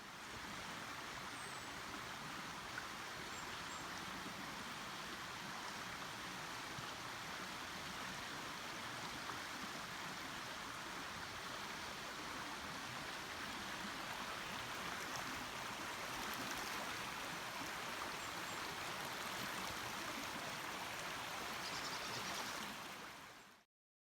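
Stream water rushing steadily, a constant even wash that fades out near the end.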